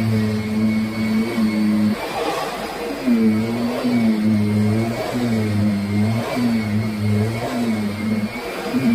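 Kirby Sentria upright vacuum cleaner running while being pushed back and forth over the floor. Its motor hum is steady at first, then from about three seconds in it dips and bends in pitch roughly once a second with each stroke of the nozzle.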